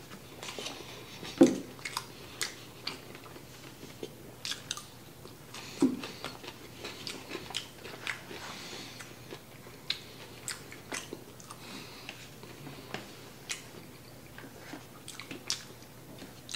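Close-up chewing and biting of food, with many short mouth clicks and a fork picking at a paper plate. There are a couple of louder knocks, one about a second and a half in and one about six seconds in.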